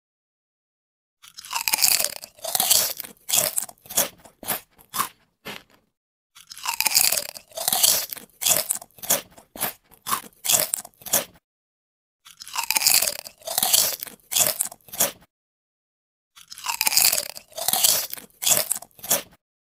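Crunchy biting and chewing, like someone eating crisp grilled food, in four bouts with dead silence between them. Each bout opens with a big crunch and goes on in quicker, smaller crunches. These are eating sounds laid over the paper skewers as they are taken away.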